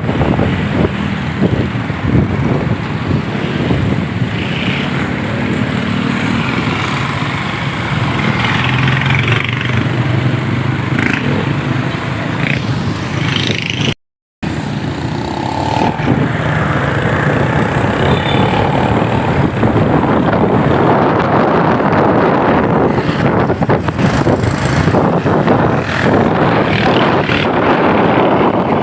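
Motorcycle engine running under way with wind buffeting the microphone, the engine note rising for a few seconds partway through; the sound cuts out for a moment about halfway through.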